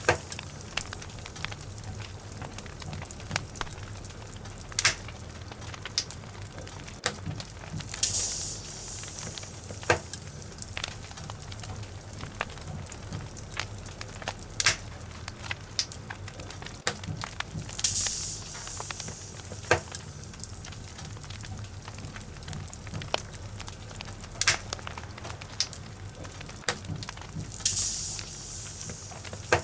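Wood logs burning in a fireplace: a steady crackle with scattered sharp pops, and a high hiss that swells briefly about every nine to ten seconds.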